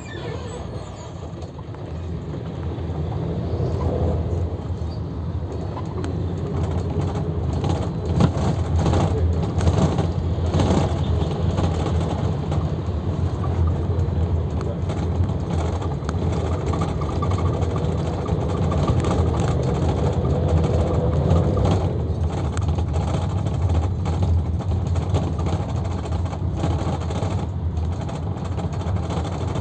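Luidor 2250DS minibus driving, heard from inside the cabin: a steady engine and road rumble, getting louder over the first few seconds as it gathers speed, with an engine whine that rises and falls and occasional rattles.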